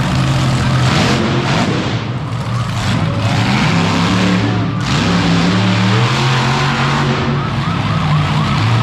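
Monster truck engine running loud, its pitch rising and falling as it is revved, over a heavy rush of noise.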